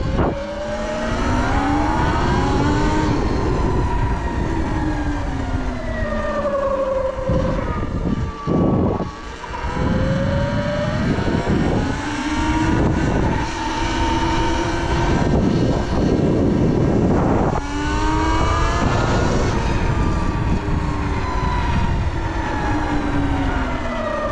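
Sur Ron electric dirt bike's motor whining, its pitch repeatedly rising and falling as the bike speeds up and slows down. Heavy wind rumbles on the microphone underneath.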